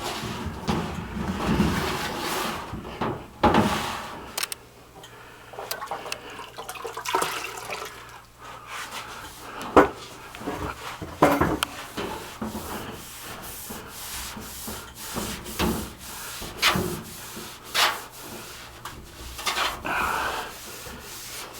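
Wet scrubbing by hand inside a sheet-metal return air duct with TSP cleaning solution: irregular rubbing and scraping strokes, with knocks against the duct and some sloshing water.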